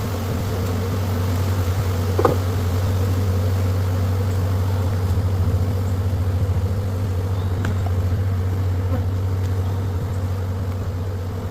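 Honeybees buzzing in a steady, loud drone around an open hive during a frame transfer, with a brief knock about two seconds in.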